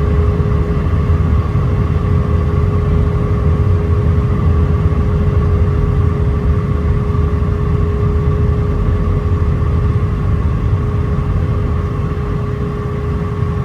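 Cabin noise inside an Airbus A319 on final approach: a steady low rumble of airflow and its IAE V2500 turbofan engines, with a constant hum above it.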